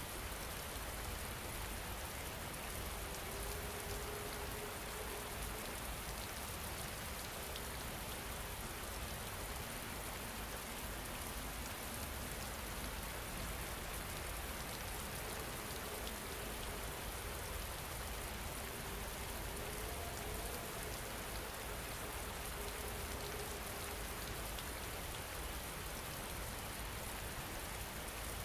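Steady rain falling on a surface, an even hiss of drops with no change in strength.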